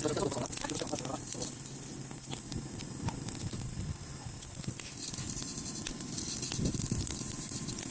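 Freshly lit campfire crackling, with irregular small pops over a steady hiss, as the flames take from newspaper and dry kindling into thin damp wood laid on top.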